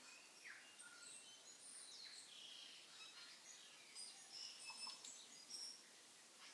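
Faint birdsong: short chirps and whistled calls from several birds over a steady hiss, growing busier about two-thirds of the way through.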